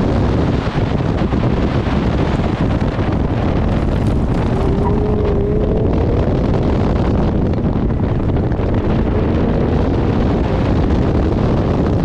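Heavy wind buffeting on an outside-mounted microphone over a C4 Corvette's V8 engine running hard through an autocross course, with a faint pitched tone rising briefly twice.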